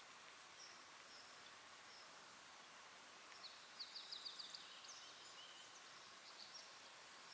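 Quiet outdoor background hiss with faint bird calls: scattered thin high notes and, about four seconds in, a short rapid trill of about eight notes.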